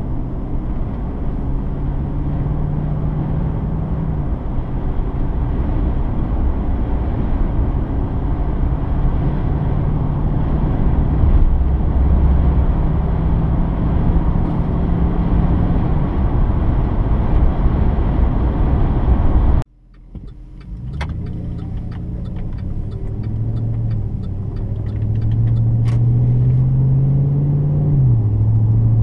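A 2009 Chevrolet Silverado's 5.3L V8 running while the truck is driven: a steady exhaust note under heavy rushing road and wind noise. About two-thirds through, the sound breaks off abruptly, then the engine note climbs steadily as the truck accelerates and drops sharply near the end at an upshift.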